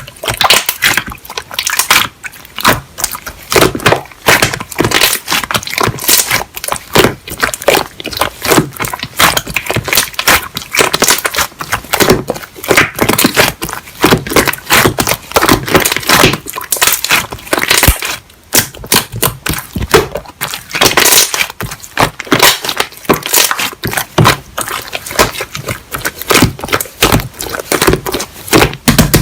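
Slime being squished and kneaded by hand, a dense run of sticky crackling pops and clicks.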